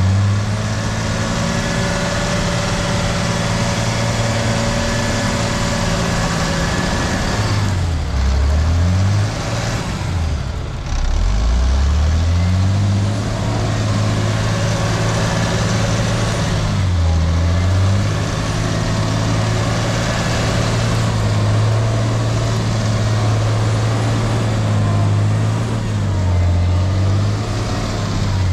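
Off-road haul truck's engine working hard under load. Its speed dips and climbs back up about four times as the truck pulls up a hill through deep ruts.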